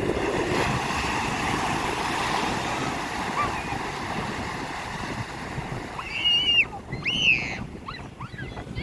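Ocean surf washing ashore: a steady hiss of breaking waves that slowly eases. Past the middle, two loud high-pitched calls rise over it, then a few short chirps near the end.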